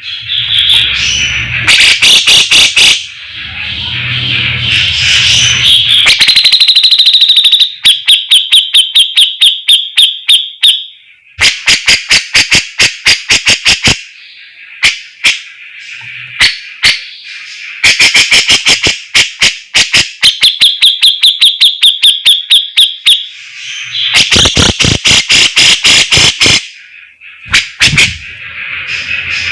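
Grey-cheeked bulbul (cucak jenggot) singing loudly: runs of sharp, rapid-fire repeated notes, several a second, and buzzing trills, in bursts with short breaks between them.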